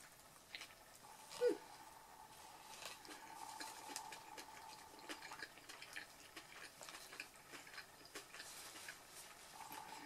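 Quiet close-up chewing and mouth sounds of a person eating a soft tortilla wrap: scattered small wet clicks, with one brief louder mouth sound about one and a half seconds in. A faint steady hum comes and goes in the background.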